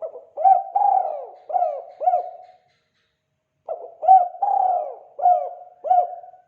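Spotted dove (tekukur) cooing its 'kuk 2' call: two phrases of about five coo notes each, with a pause of about a second between them.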